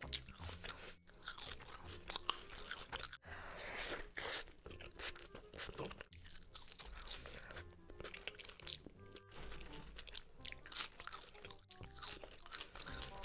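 Close-miked ASMR eating: crunchy bites and chewing of a cheese-sauce-covered burger and fries, with background music underneath.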